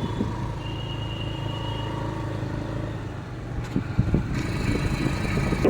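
Outdoor traffic noise: a motor vehicle engine running steadily, with a short high beep lasting about a second, a little under a second in.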